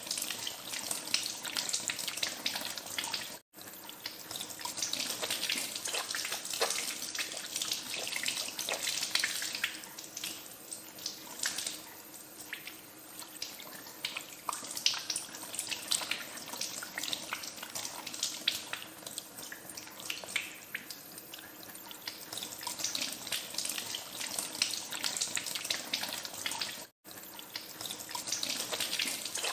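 Tap water running into a sink, with irregular splashing as hands are washed under the stream. The sound cuts out for an instant twice, about three and a half seconds in and near the end.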